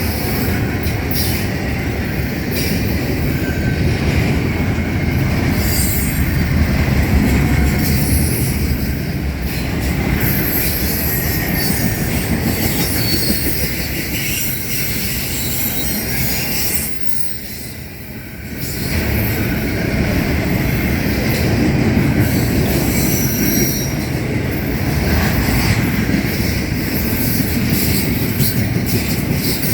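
Freight train cars rolling past close by: a steady loud rumble of wheels on rail with clickety-clack and short high wheel squeals scattered throughout. The sound dips briefly about two-thirds of the way through, then picks up again.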